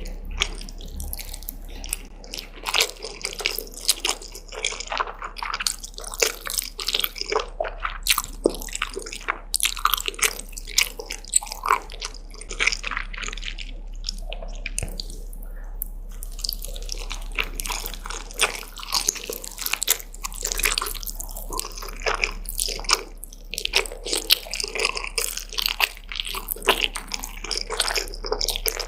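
Close-miked eating sounds: wet chewing, smacking and biting of noodles and fried dumplings, many small irregular clicks and squelches.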